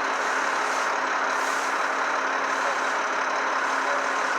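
Heavy truck engine running steadily, a constant low hum under an even rush of street noise.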